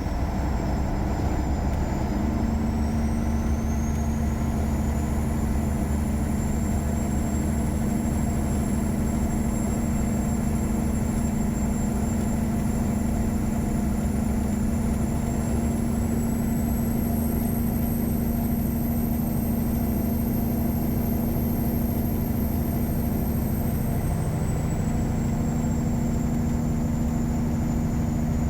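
Caterpillar 3406E inline-six diesel in a Freightliner Classic semi truck running steadily. A faint high whine rises a couple of seconds in, climbs a little more about halfway, and falls back near the end.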